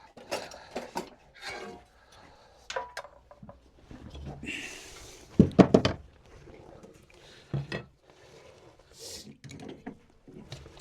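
Tools and wooden pieces knocked and set down on a workbench as it is cleared, in a small workshop room. Scattered knocks and clatters, a short hiss, then a loud cluster of clattering knocks about five and a half seconds in.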